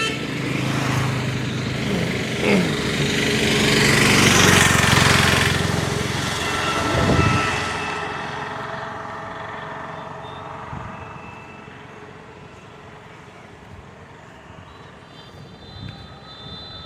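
A motor vehicle passing by: its engine and rushing noise swell, are loudest about four to five seconds in, then fade away.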